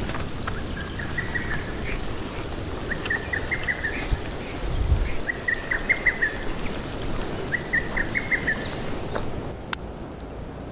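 Rural outdoor ambience: a steady, high-pitched insect drone that cuts off suddenly near the end, while a bird repeats a short phrase of quick notes about every two seconds, four times.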